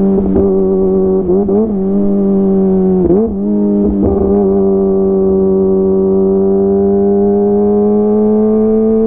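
Kawasaki ZX-25R's 250 cc inline-four engine running through a DX Generation GPR full-system aftermarket exhaust, riding at a steady high-revving note. The pitch wavers and dips briefly a few times in the first half, then holds steady and creeps slightly higher near the end.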